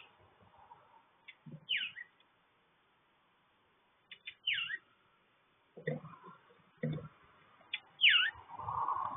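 A bird calling three times, each a short note sliding down in pitch, two to three seconds apart, with a few soft knocks and clicks between the calls.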